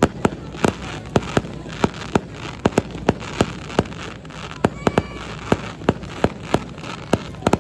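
Fireworks bursting overhead in a rapid, irregular barrage of sharp bangs, two to four a second.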